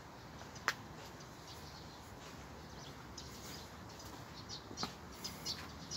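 Birds chirping in short, high calls over a low steady outdoor rumble, with a sharp click less than a second in and another about five seconds in.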